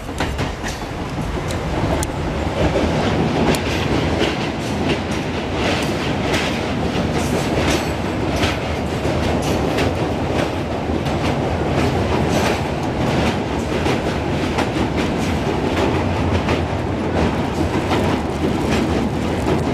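Moving train heard from inside a passenger compartment: a steady rumble with the clickety-clack of the wheels and frequent sharp clicks and rattles.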